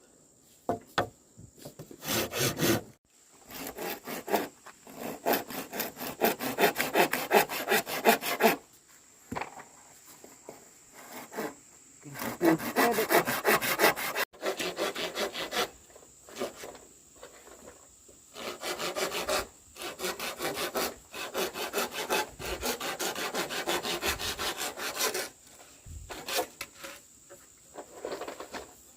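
Hand saw cutting through wood in several bursts of rapid back-and-forth strokes, with short pauses between them.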